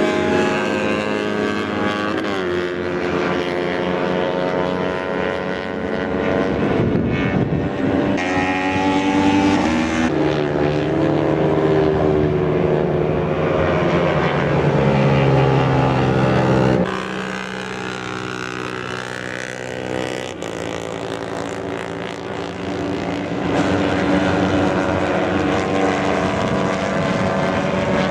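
Several racing motorcycles' engines running hard at high revs, their pitches rising and falling as they accelerate, shift and pass. The sound eases somewhat after about 17 seconds and builds again about 23 seconds in.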